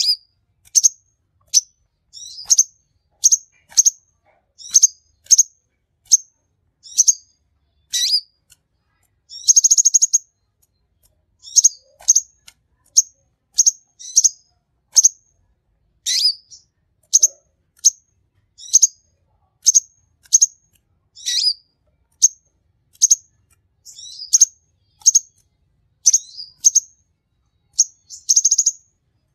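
Kolibri konin sunbird singing steadily: a long run of short, high, sharp chirps, a little more than one a second. Twice, about ten seconds in and near the end, a longer rapid buzzy trill breaks the run.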